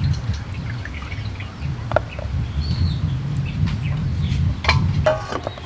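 Birds chirping and calling over a steady low rumble, with a few sharp clicks about two seconds in and again near the end.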